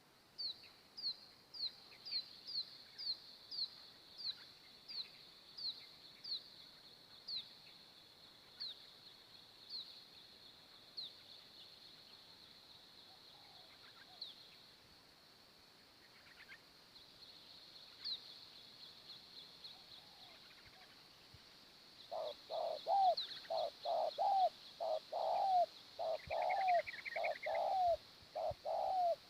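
Bird calls: a small bird repeats sharp, high, downward-sliding notes that slow and thin out over the first half. About three-quarters of the way through, spotted doves start a louder run of lower cooing calls, about two a second.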